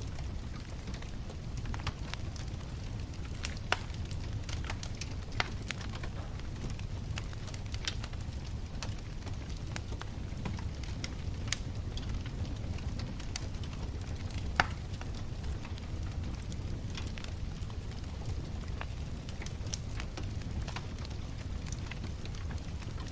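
Wood bonfire crackling, with sharp pops at irregular moments over a steady low rumble. The loudest pop comes about two-thirds of the way through.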